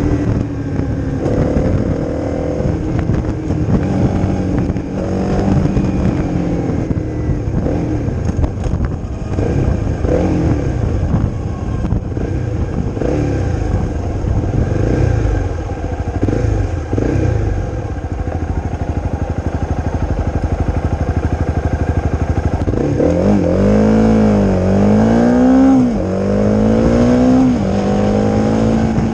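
Honda CRF250's single-cylinder four-stroke engine running through a Leo Vince aftermarket exhaust while riding, its revs rising and falling through the gears. Late on there is a quick series of rev rises and drops, then the engine holds a steady higher speed near the end.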